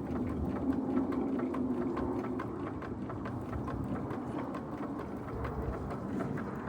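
Distant rumble of an RAF Eurofighter Typhoon's jet engines, easing off as the aircraft moves away. Faint rapid light clicking runs underneath.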